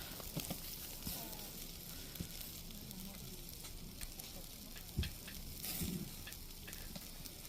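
Food sizzling on a hot cooking surface, a steady hiss with scattered small pops, and a short thump about five seconds in.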